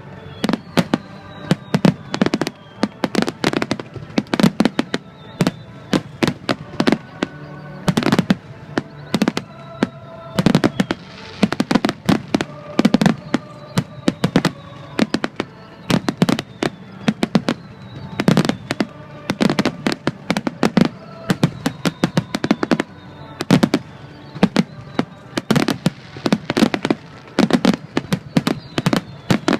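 Fireworks finale: a rapid, dense barrage of shell bursts, several bangs a second without a break, with music playing underneath.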